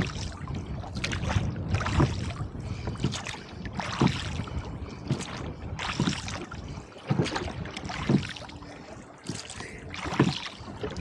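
Oars of a rowboat stroking through choppy water, a splash and knock about every two seconds, with gusty wind rumbling on the microphone.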